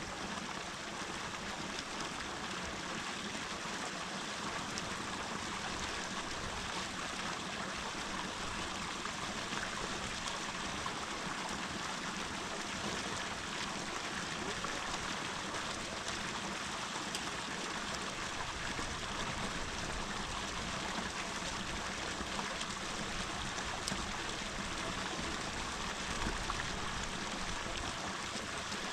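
Small creek running steadily, an even rush of flowing and trickling water.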